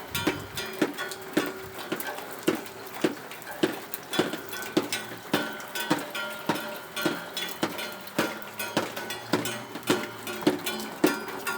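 A plucked string instrument strummed in a steady rhythm, with sharp percussive strokes about twice a second over ringing chords.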